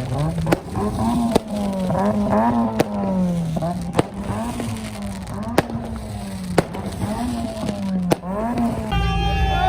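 Car engine held at high revs, its pitch rising and falling, with sharp cracks about once a second.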